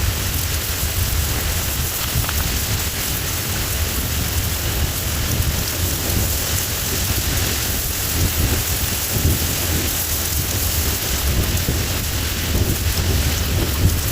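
Thunderstorm: steady heavy rain with a low rumble of thunder underneath.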